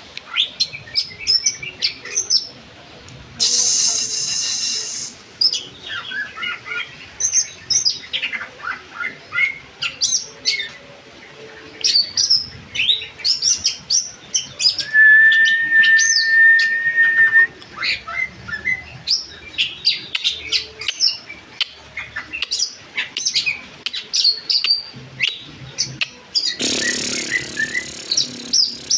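Greater green leafbird (cucak ijo) and lovebird singing against each other: a rapid, continuous stream of chirps, trills and whistles, with one long steady whistle held for about two seconds midway. Two louder, harsher noisy stretches come about four seconds in and near the end.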